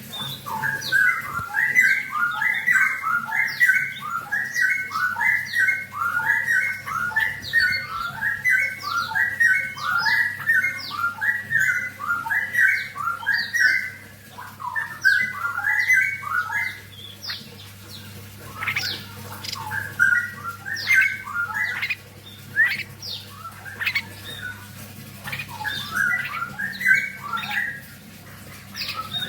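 A young pair of cage birds, a straw-headed bulbul (cucak rawa) and a wambi, giving rapid repeated squawking calls, about three a second, for the first half. After that the calls come sparser, in short runs with pauses.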